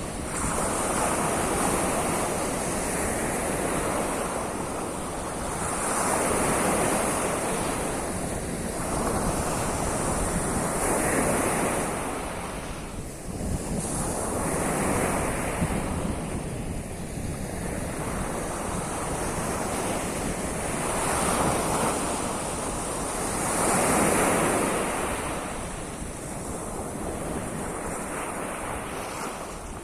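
Sea of Azov surf breaking on the shore, the wash of waves swelling and fading every few seconds, with wind rumbling on the microphone.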